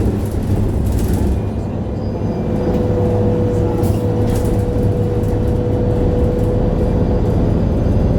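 MAN A23 Lion's City G articulated bus's diesel engine running with a steady low drone, slightly louder from about two and a half seconds in, with a thin steady whine over it until near the end.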